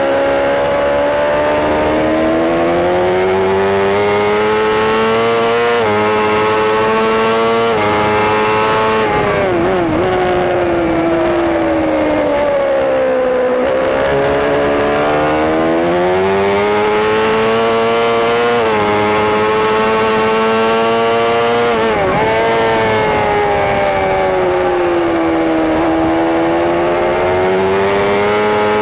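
Superbike engine heard on board at race pace, its revs climbing and falling through the corners, over wind rush. There are two quick wobbling drops in pitch, about ten seconds in and again past twenty seconds: downshifts under braking.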